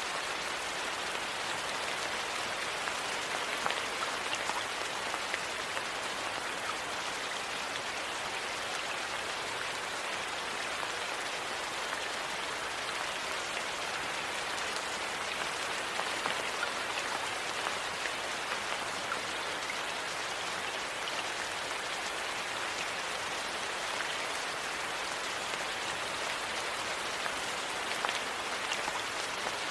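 Steady rain falling, an even hiss of drops with small ticks scattered through it now and then.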